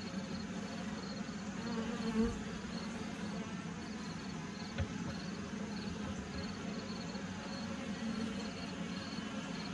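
Honey bees humming steadily around an open hive, the dense drone of many bees, with a faint high chirp repeating about twice a second behind it.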